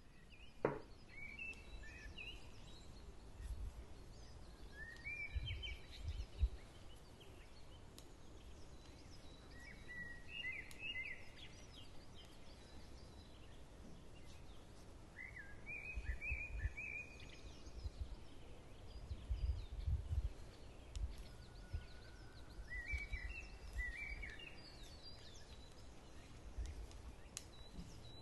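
A songbird repeating a short, warbled song phrase about every five seconds, over faint steady background noise with occasional low rumbles.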